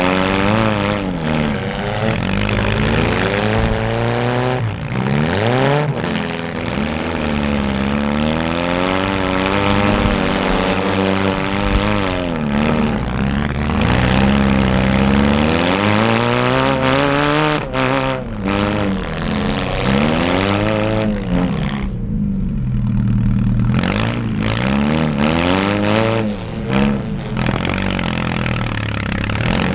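Small demolition-derby cars' engines revving hard and easing off over and over, several at once, their pitch sweeping up and down continuously.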